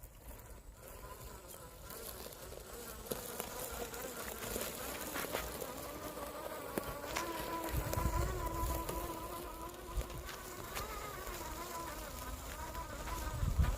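Electric motor and gearing of a Traction Hobby Mercedes G550 4x4² RC crawler whining, the pitch wavering up and down as the throttle changes.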